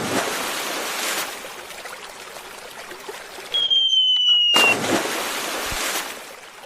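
Cartoon sound effects: a steady rushing noise like water or wind, cut off about three and a half seconds in by a short, slightly falling whistle tone. The rushing noise then returns and fades out near the end.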